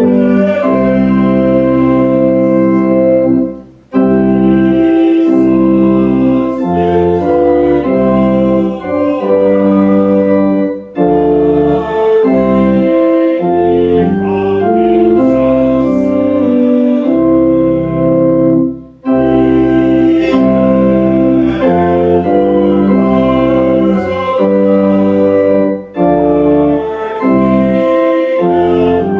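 Organ playing slow, sustained chords in phrases, with a brief break between phrases about every seven seconds.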